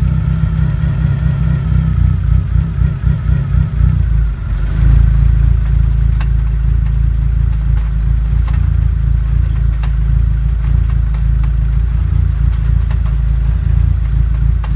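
Low rumble from the rear of a first-generation DSM car (Eclipse/Talon/Laser), which the owner suspects comes from the transmission. A faint whine fades out about four seconds in, after which the rumble grows louder and steadier.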